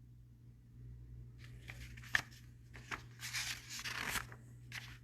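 Paper rustling and flapping with a sharp snap about two seconds in: the pages of a picture book being handled and turned.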